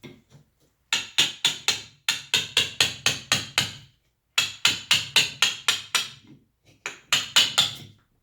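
Wooden carving mallet striking a chisel or gouge that cuts into wood: quick runs of sharp knocks, about four to five a second, in four bursts with short pauses between.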